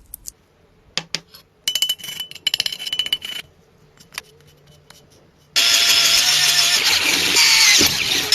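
Scattered sharp clicks and a rapid rattle of hand work on metal, then a loud power tool starts suddenly about five and a half seconds in and runs steadily with a whine.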